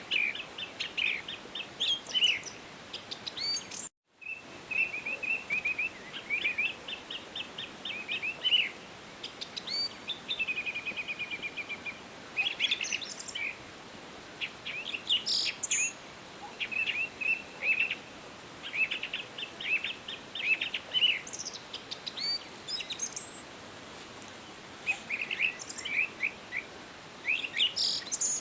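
Several forest songbirds singing and calling over a steady faint hiss of ambience, with many short chirps and a rapid trill about ten seconds in. About four seconds in the sound cuts out completely for a moment, an edit splice.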